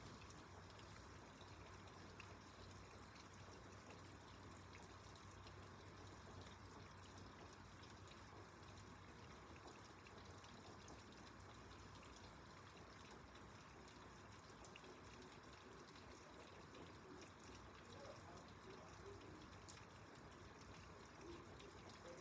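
Faint, steady rain with dripping water.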